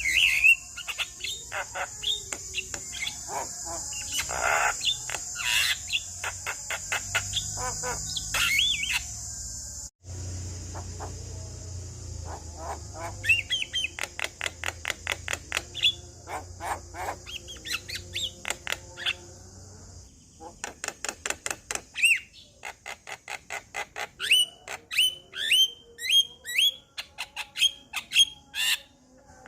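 Male Javan myna singing a busy chatter of rapid clicks, short whistles and squawks. A steady high insect trill runs behind it for the first two thirds, and the sound breaks off abruptly for a moment about a third of the way in.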